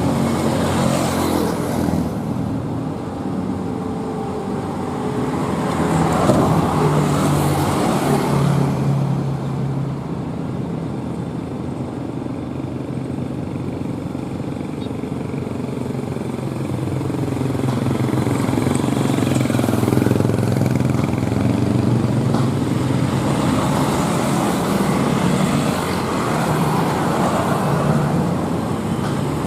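Heavy diesel trucks running under load on a steep climb. About halfway through, engine notes rise and fall against each other as vehicles pass.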